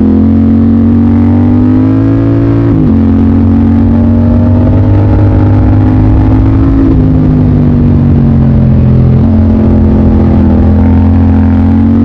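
Motorcycle engine riding under load, its pitch rising for about three seconds and then dropping suddenly as it shifts up a gear, then running fairly steadily with small changes in pitch.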